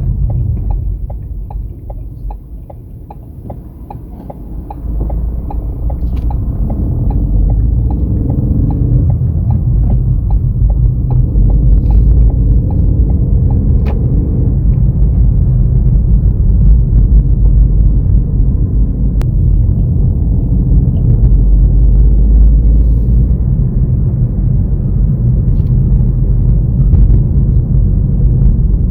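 Motorcycle on the move: a steady loud low rumble of engine and wind on the microphone, easing briefly about two to four seconds in.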